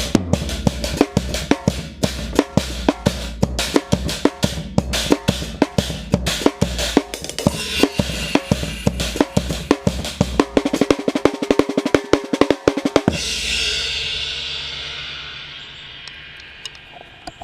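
Tama acoustic drum kit with Dream cymbals played in a fast groove of kick, snare and cymbals. About two-thirds of the way through it breaks into a rapid drum roll, then ends on a single cymbal crash that rings out and slowly fades.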